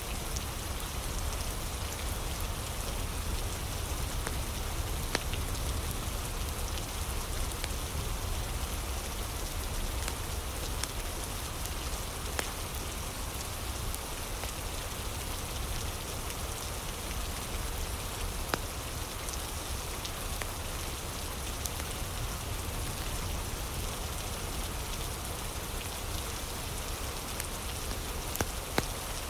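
Steady rain with occasional sharp crackles and pops from a fire.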